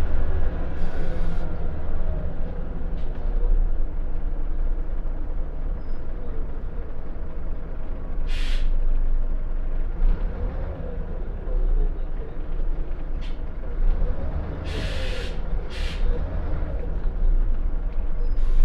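Scania L94UB single-deck bus heard from on board: its diesel engine and running gear rumble steadily throughout. Short bursts of compressed-air hiss from the air brakes come about eight seconds in and twice in quick succession around fifteen seconds in.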